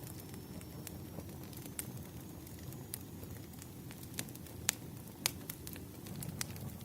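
Campfire of burning firewood, crackling and popping: a steady low rumble of flames with scattered sharp pops, a few louder ones about two-thirds of the way through.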